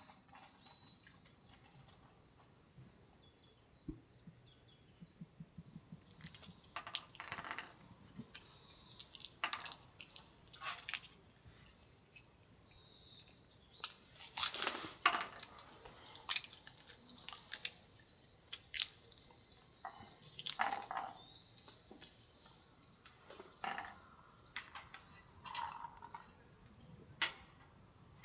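Scattered light clicks and knocks at irregular intervals, a few ringing briefly, with a handful of short, high bird chirps.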